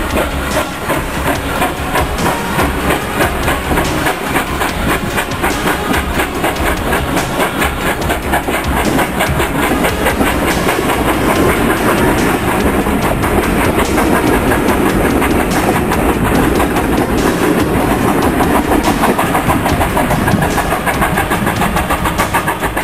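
Steam-hauled passenger coaches rolling past close by, their wheels clicking rapidly and steadily over the rail joints, louder in the middle as the coaches go by and easing off near the end as the train draws away.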